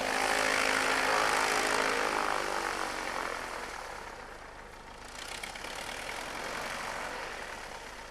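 Propeller aircraft flying past, its engine loudest about a second in and dropping in pitch as it moves away, then a second, smaller swell of engine noise a few seconds later.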